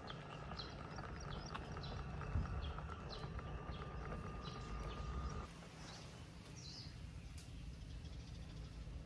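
Small birds chirping in short, repeated high notes, about two a second, over a low outdoor rumble. A faint steady tone under them stops about five seconds in.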